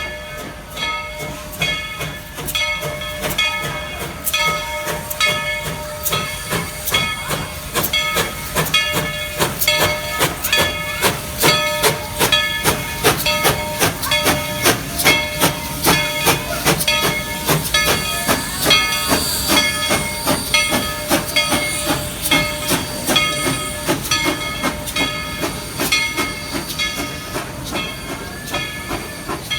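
Steam locomotive working past with a steady beat of exhaust chuffs, about three to four a second, and the hiss of escaping steam. The chuffs grow louder toward the middle of the passage and ease off near the end. Steady ringing tones sound over the chuffs throughout.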